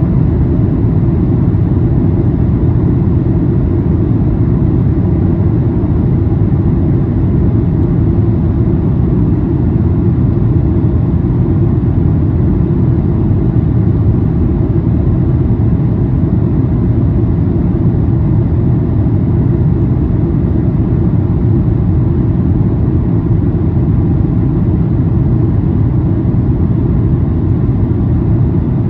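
Boeing 737-800 cabin noise during landing: a steady low rumble of airflow and the CFM56 engines, with no sharp change in level.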